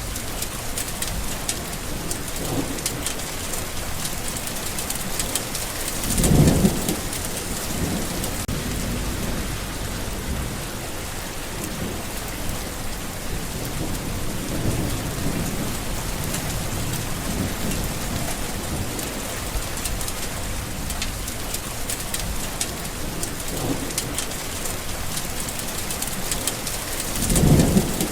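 Steady heavy rain with a fine crackle of drops, and low rolls of thunder, the loudest about six seconds in and again near the end.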